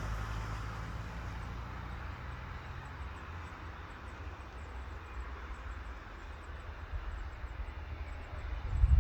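Distant aircraft engine noise: a low hum and a faint whooshing haze that slowly fade, with a louder low rumble building near the end.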